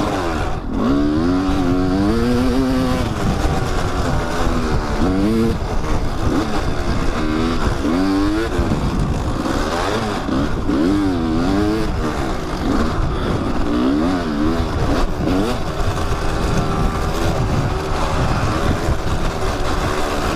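Kawasaki dirt bike's engine revving up and down as it is ridden along a trail, its pitch rising and falling every second or two with gear changes, over wind rumble on the helmet microphone.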